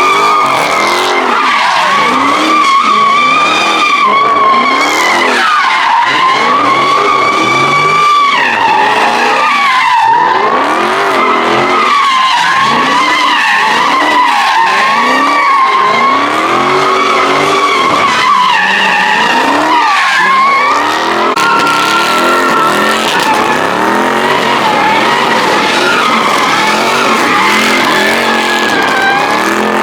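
A car's tires squealing in one long unbroken skid, the squeal wavering in pitch, while its engine revs up and drops back over and over, about every second or two, as in a car doing donuts.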